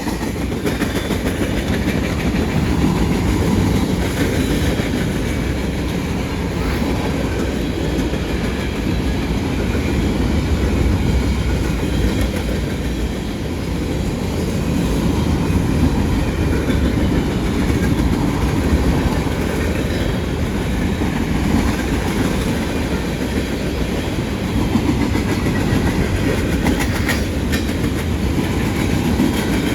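Freight cars of a CSX manifest train rolling past: a steady, loud rumble with wheels clacking over rail joints.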